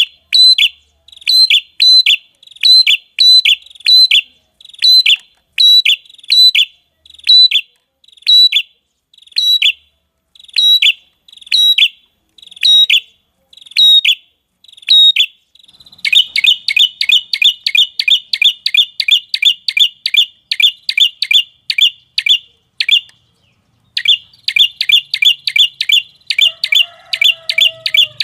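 Red-headed prenjak call used as a bird-catching lure: loud, sharp, high chirps repeated about twice a second, switching about halfway through to a fast rattling run of notes that pauses briefly and then resumes.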